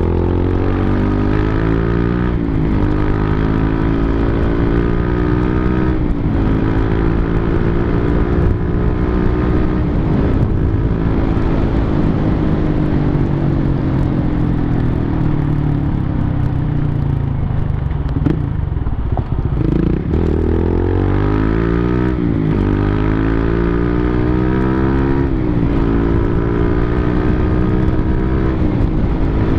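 Big motorcycle engine being ridden through the gears: the revs climb and drop back at each upshift several times, fall away in one long slow-down around the middle, then climb through the gears again near the end.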